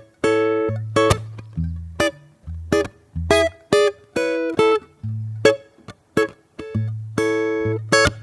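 Solo acoustic guitar improvising: plucked chords and single notes ringing out over low bass notes, at an unhurried pace of about one or two notes a second.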